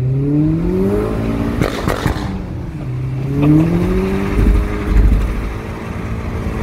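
Stage 2-tuned VW Mk4 Jetta 1.8T turbo four-cylinder with a catless 3-inch downpipe accelerating hard, heard from inside the car. The revs climb for about a second and a half, then a no-lift shift brings a burst of crackles from the ignition cut, and the revs climb again in the next gear.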